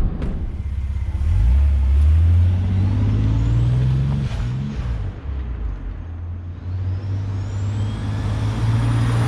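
Lexus GS driving on a road test: the engine pulls up through the revs, eases off about four and a half seconds in, then pulls up again near the end, with a faint rising whine over it. No suspension squeak with the new front upper control arms fitted, by the owner's account.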